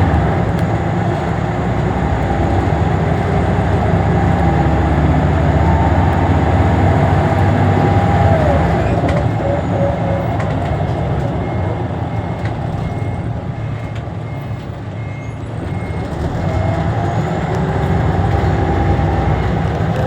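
Scania L94UB city bus running, with its engine hum steady throughout and a gear whine that glides in pitch. The sound eases off a little past the middle, then the whine rises again as the bus pulls harder.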